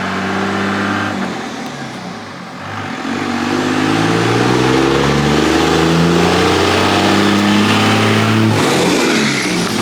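Tow vehicle's engine running with road noise while towing a loaded trailer. The engine eases off about a second in, then picks up and rises in pitch from about three seconds in and holds steady.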